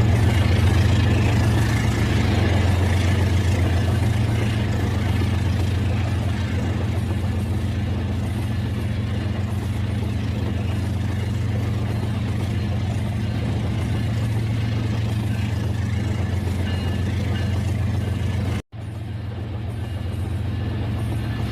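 Rail King toy train running: a steady low engine-like hum from the toy, broken by a brief dropout near the end.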